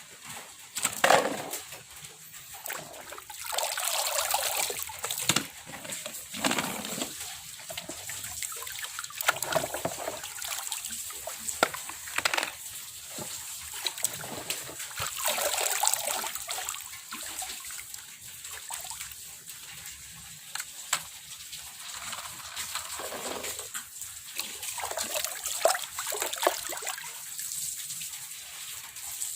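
Water sloshing and splashing as muddy toy cars are soaked and scrubbed clean by hand, in uneven swishes and splashes.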